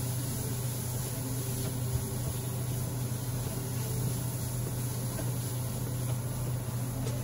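Onions and tomatoes frying in a stainless steel pan, stirred with a silicone spatula, under a constant low hum.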